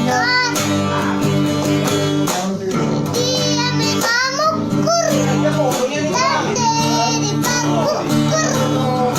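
A child singing a song over steady backing music.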